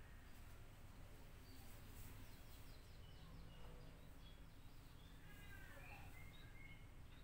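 Near silence: a faint low background hum with a few faint, short bird chirps, more of them in the second half.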